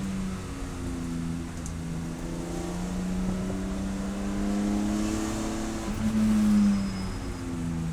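Race car engine running at speed under load, its pitch climbing slowly. It jumps higher about six seconds in, then falls lower near the end, as with gear changes or lifting off.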